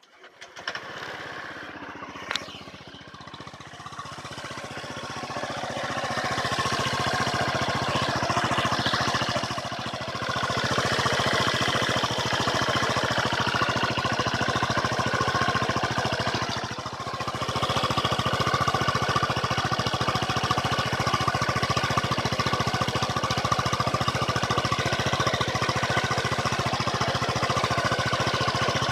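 Honda PCX125 scooter's single-cylinder four-stroke engine starting up and running through an aftermarket Moriwaki muffler. It gets louder over the first several seconds, then runs steadily, with two brief dips in level.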